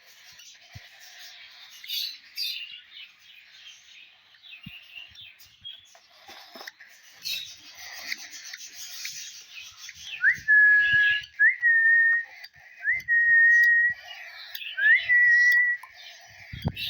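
Lovebirds chattering in a shrill, scratchy jumble. About halfway through come four long, level whistled notes, each opening with a quick upward slide.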